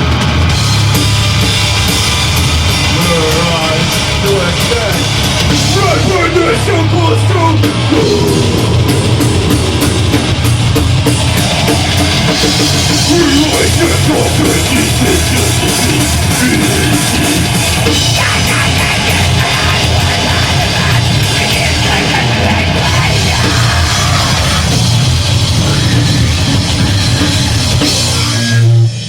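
Deathgrind band playing live and loud, with a dense wall of distorted band sound and drums that stops abruptly near the end as the song finishes.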